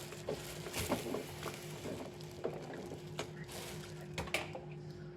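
Quiet kitchen handling noises: scattered light clicks and taps over a steady low electrical hum.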